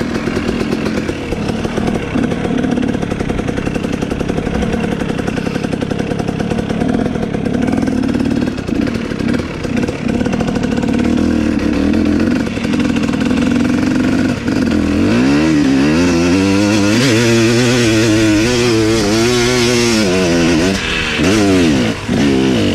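Dirt bike engine running steadily under throttle, then from about two-thirds through revving up and down over and over, its pitch rising and falling with the throttle.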